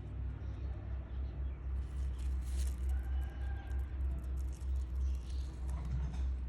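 Rabbits chewing green food: small crisp crunching clicks in clusters, over a steady low rumble.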